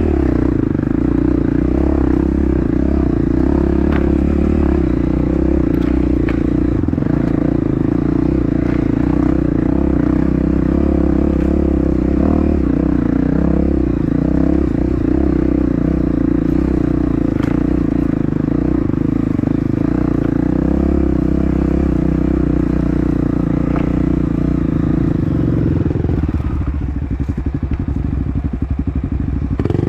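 Off-road dirt bike engine running at steady revs, with scattered clicks and clatter. A few seconds before the end it drops to a lower, pulsing note.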